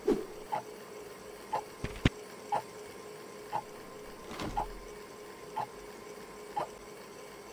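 Clock ticking about once a second over a faint steady hum. A sharp click comes about two seconds in, and a duller knock just past halfway.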